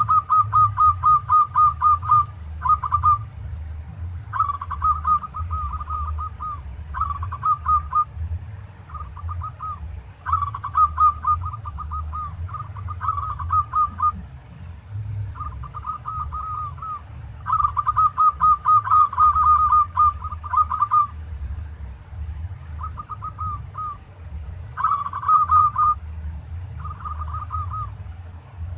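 Zebra dove (perkutut) cooing in repeated phrases of rapid, stuttering notes, each phrase one to three seconds long with short pauses between, over a steady low hum.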